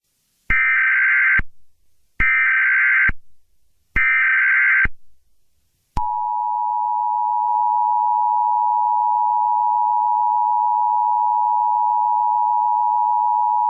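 Emergency Alert System tones. Three short screeching bursts of the SAME digital header come first, each about a second long. Then, about six seconds in, the steady two-tone EAS attention signal starts and holds without a break. Together they mark the start of an emergency alert broadcast.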